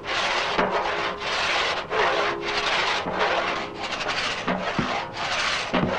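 Two-man pit saw (Dielsäge) ripping a squared oak log lengthwise: a steady rhythm of sawing strokes, a little over one a second, with the blade already running fully in the cut. The saw cuts on the downstroke and is only repositioned on the lift.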